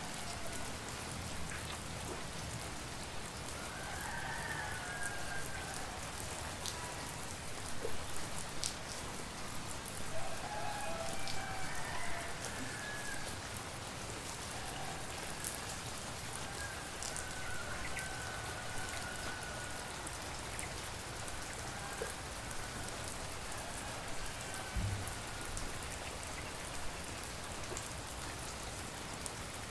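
Steady tropical rain falling, with individual drops pattering and dripping close by. Faint distant rooster crows come through the rain every few seconds.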